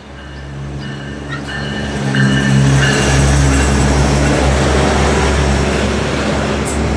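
Union Pearson Express diesel multiple-unit train coming into the station right alongside the platform. Its engine hum and wheel and rail noise build up and hold steady and loud from about two seconds in.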